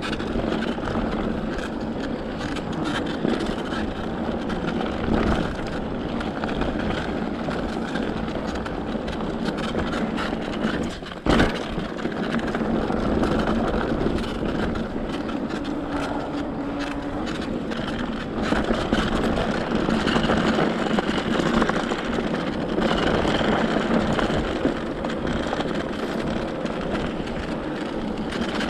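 Mountain bike moving along a dirt truck trail with its electric motor dead: a continuous rough noise of tyres and wind, with one sharp knock about eleven seconds in.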